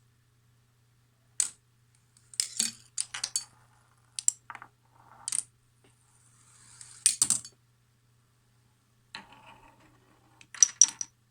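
A homemade Rube Goldberg (Pythagora Switch) machine running: a string of sharp clicks and clacks of small hard parts striking and tipping, with short stretches of rolling between them, over a faint steady hum.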